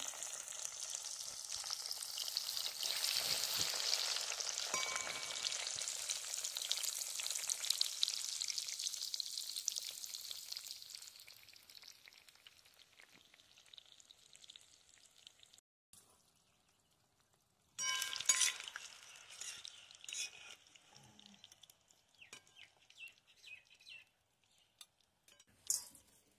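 Vegetable slices sizzling loudly in hot oil in a metal wok, just dropped in, the frying hiss dying down after about ten seconds. Later a few sharp metal clinks of a wire strainer against the wok.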